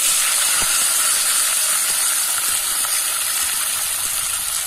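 Onion and tomato slices sizzling in hot oil in a pot: a steady frying hiss.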